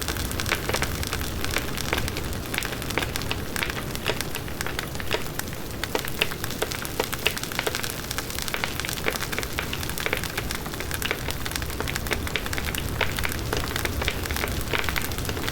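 Large wood bonfire burning: dense, irregular crackling and popping of the burning wood over a steady low rush of the flames.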